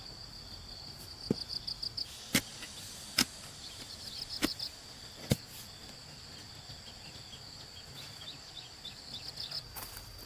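Insects chirping in a steady high trill with pulsing bursts, and five sharp knocks about a second apart in the first half, the loudest sounds present.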